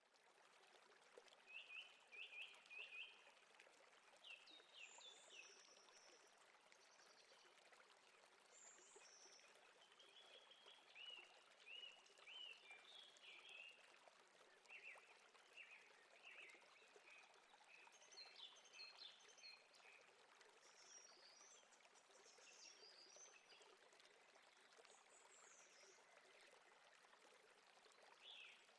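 Faint running water of a stream, a steady rushing hiss, with small birds chirping in short repeated phrases throughout.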